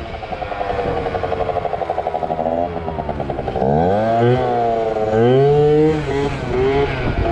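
Two-stroke Yamaha ZR Evo scooter engine running with a fast, even pulse, then revved up and down several times from about the middle on, its pitch rising and falling with each twist of the throttle.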